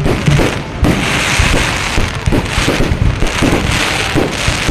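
Fireworks going off in a dense barrage: many overlapping bangs and crackles, one after another without a break.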